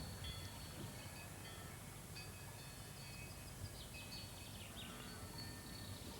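Faint outdoor ambience of birds singing: short high chirps and whistles, with a quick run of falling notes about four seconds in, over a low steady rumble.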